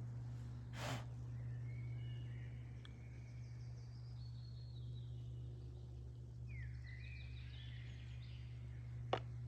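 Small birds chirping and trilling over a steady low hum, with a brief rustle about a second in and a single sharp click near the end.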